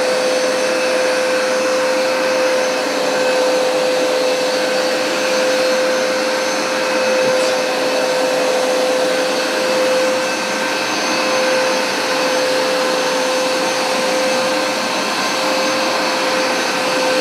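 Hoover SmartWash Pet carpet cleaner running: a steady motor whine at one constant pitch over a dense rush of suction. The loudness swells gently every second or two.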